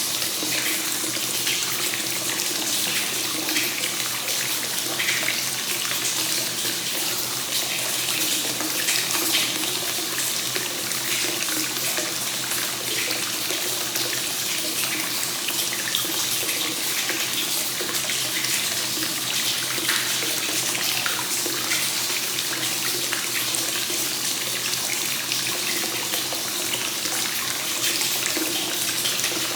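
Hot spring source water flowing continuously into a bath, a steady, even rush of water.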